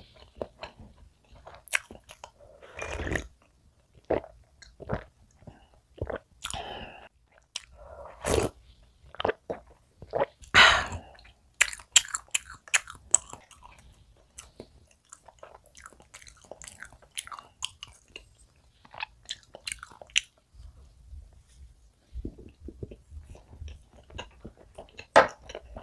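Close-miked chewing of soft castella sponge cake: irregular mouth clicks and small smacking sounds.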